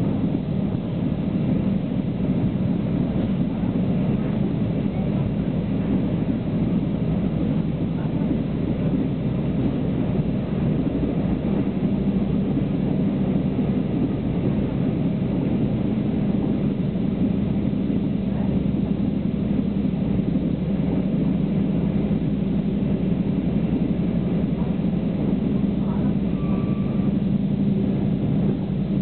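Steady running noise of a passenger train heard from inside the carriage: an even rumble with a constant hum, no change in speed.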